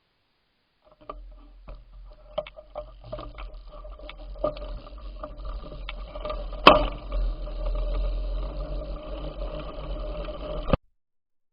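Bicycle ride on the move: a low rumble of wind on the microphone with scattered clicks and rattles from the bike, and one sharp knock about two-thirds of the way through. The sound starts about a second in and cuts off suddenly near the end.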